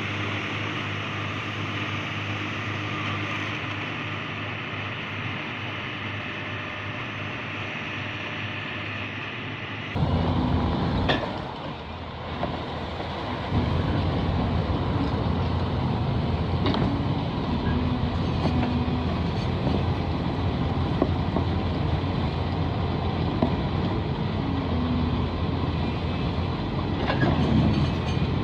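Heavy truck engine running steadily. About ten seconds in it cuts to a louder, rougher engine run with rattles and occasional knocks.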